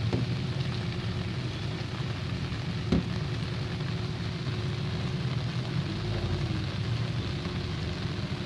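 Steady rain falling on an umbrella and on floodwater, a continuous hiss over a low rumble, with one sharp knock about three seconds in.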